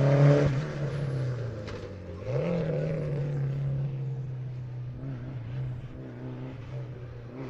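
Historic rally car engine at full throttle on a special stage. It is loud at the start and drops away about half a second in, then rises in pitch again a little after two seconds as the car accelerates, fading as it pulls away.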